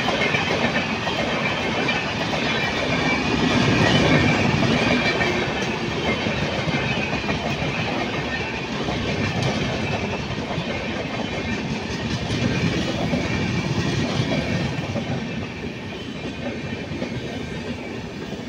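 Passenger train coaches passing close by at speed, with a steady rushing and the clickety-clack of their wheels over the rails. The sound eases off a little near the end.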